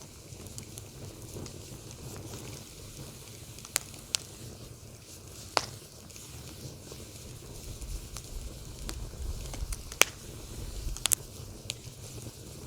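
Wood fire burning, with a low steady rumble of flames and a few sharp, scattered pops of crackling wood, the loudest about ten seconds in.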